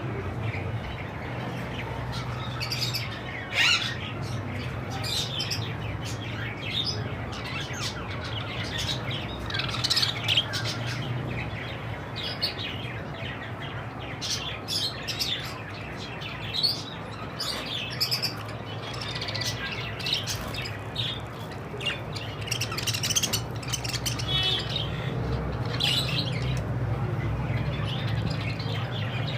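Budgerigars chirping and squawking in a steady stream of short, high calls, over a steady low hum.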